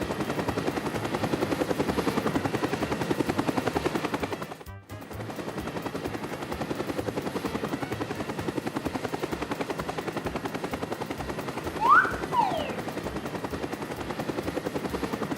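A rapid, even rattling sound effect with a brief break about five seconds in, and two quick whistling glides near twelve seconds, one rising and one falling.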